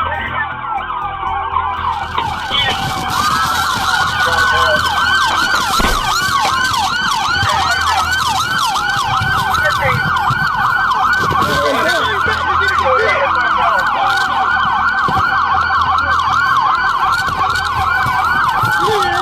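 Several police car sirens sounding together: a slow rising-and-falling wail overlapped, from a few seconds in, by a fast yelp sweeping about four times a second.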